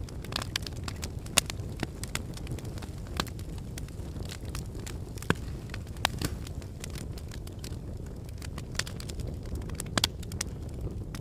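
Wood fire of burning logs crackling: a steady low rumble of flame with irregular sharp pops and snaps, a few louder pops scattered through.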